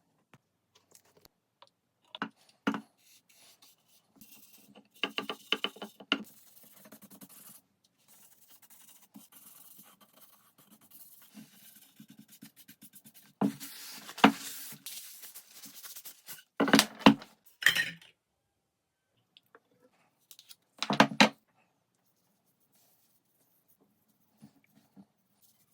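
Wooden puzzle parts being handled: irregular clicks, knocks and short scraping rattles of wood on wood, in separate bursts with quiet gaps between, the loudest clatters about two thirds of the way in.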